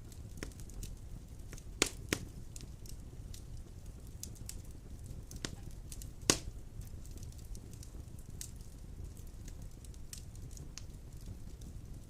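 Wood fire burning in a stone fireplace: a steady low rumble with scattered crackles and a few sharp pops, the loudest two just before and after the two-second mark and one a little after six seconds.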